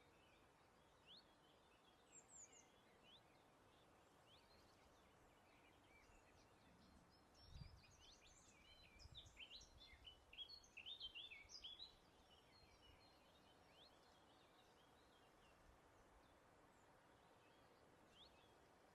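Faint wild birdsong: scattered short chirps and whistles, getting busier with several quick calls overlapping about eight to twelve seconds in, over a faint steady hiss of breeze. A single soft low thump comes about seven and a half seconds in.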